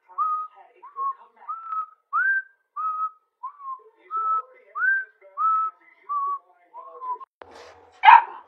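A run of short whistled notes, about two a second, each sliding up briefly and then holding. A single loud bark comes near the end.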